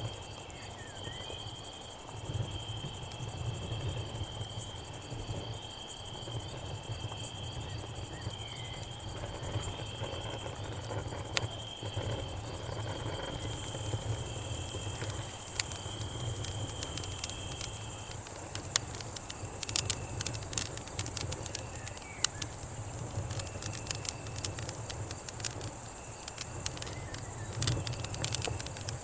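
Night insect chorus of cicadas and crickets: a steady high-pitched buzz that swells about halfway through, with a cricket's steady trill underneath until about two-thirds of the way in. Campfire crackling with scattered sharp pops, more frequent in the second half, over a low rumble.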